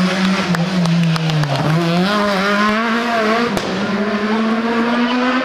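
A rally car's engine running hard on a special stage. The revs dip about a second and a half in, then climb steadily, with a few sharp cracks along the way.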